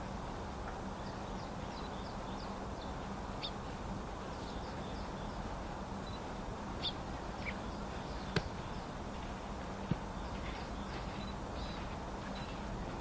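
Small wild songbirds calling with many short, high chirps scattered throughout, over a steady low background rumble. Two sharp clicks sound about eight and a half and ten seconds in.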